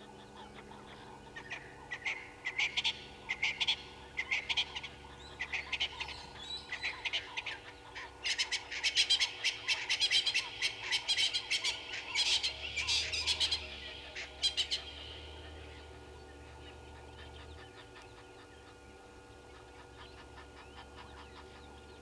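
A bird calling: a long run of short, harsh, rapidly repeated notes that grows denser and louder, then breaks off.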